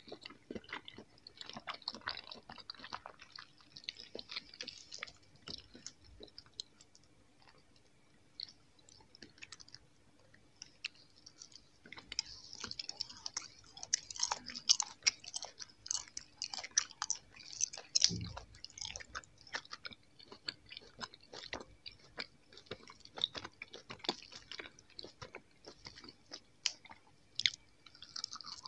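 Close-up chewing of soft jelly candies: wet, sticky mouth clicks and squelches in an irregular stream. It eases off for a few seconds about a third of the way in, then gets busier with crackly handling as a jelly candy is pulled apart with gloved fingers. There is a single dull thump about two-thirds of the way through.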